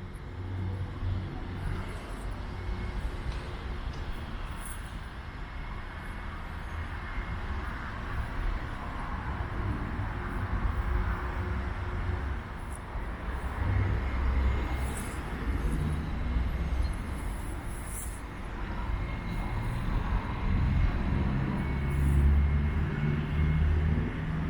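Outdoor ambience: an uneven low rumble of wind on the microphone under a steady hiss, with scattered short high chirps.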